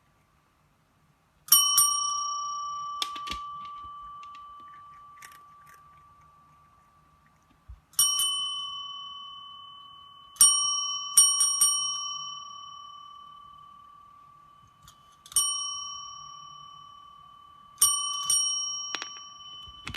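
A small metal bell struck about ten times, in single dings and quick pairs, each ding ringing out clearly and fading slowly over several seconds.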